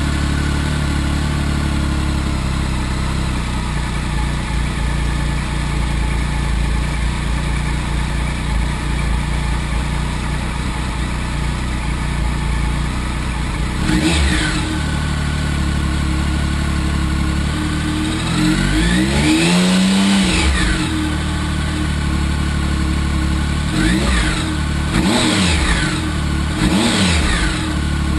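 Triumph 1050 inline-three motorcycle engine idling through its stock exhaust can, then revved. There is one quick blip about halfway, a longer rev that rises and falls a few seconds later, and several short blips near the end.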